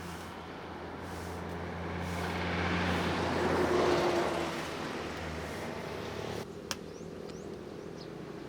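A motor vehicle engine running with a steady low hum, while a rush of noise swells to a peak about four seconds in and fades, like a vehicle passing close by. The sound drops off abruptly near the end, followed by a single sharp click.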